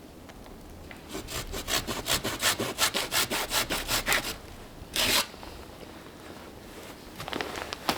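Hand saw cutting through wood in a quick run of about four to five strokes a second for some three seconds, then one short, louder scrape.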